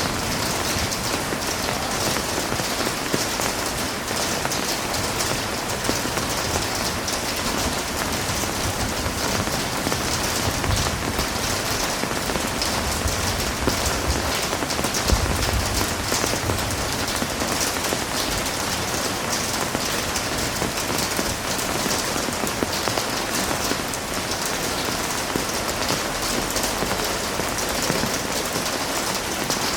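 Heavy rain falling steadily on a hard surface, a dense even hiss with a low rumble underneath.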